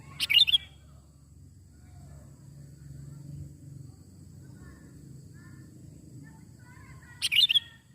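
Sooty-headed bulbul (kutilang) giving two short bursts of loud chirping calls, one just after the start and one near the end. Between them are a steady low rumble and faint, more distant bird calls.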